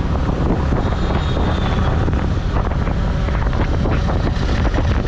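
Wind buffeting the microphone on a moving motorcycle, over the steady running of the bike's engine and road noise.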